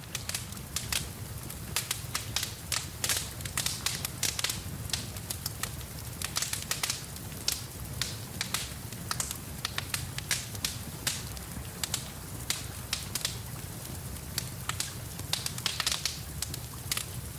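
Wood fire crackling in a fireplace: frequent sharp pops and snaps, several a second, over a steady low rumble.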